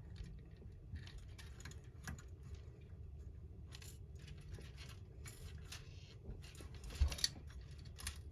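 Plastic model parts and thin wires handled and pressed into place, making a string of light clicks and rustles, the sharpest about seven seconds in, over a low steady hum.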